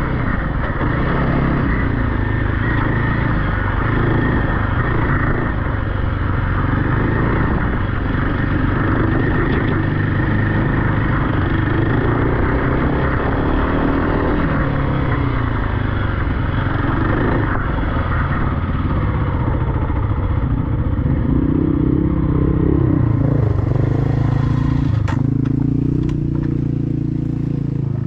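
Off-road vehicle engine running, its revs rising and falling repeatedly as it is ridden. A few sharp clicks come near the end.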